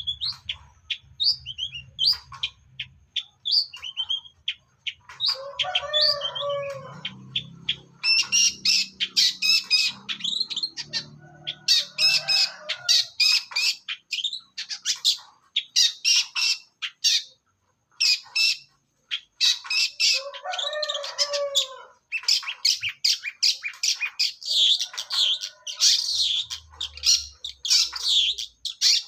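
Young wild-caught long-tailed shrike (cendet) singing nonstop: dense runs of rapid high chirps and trills, broken by harsher, lower-pitched chattering phrases about 6, 12 and 20 seconds in, with a brief pause a little past halfway.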